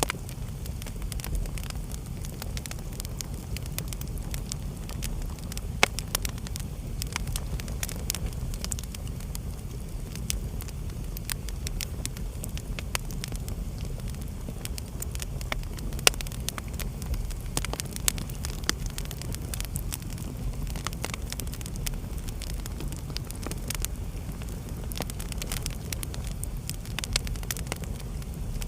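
Wood fire burning in a fireplace: a steady low rumble of the flames with frequent crackles and small pops, two sharper pops about 6 and 16 seconds in.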